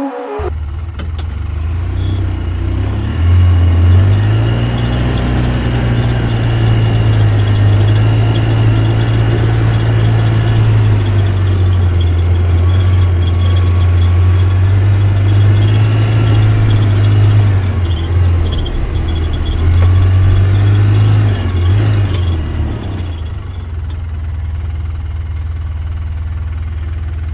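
A vehicle engine running, a low hum that rises and falls in pitch and level as it speeds up and slows, with a thin high whine over it.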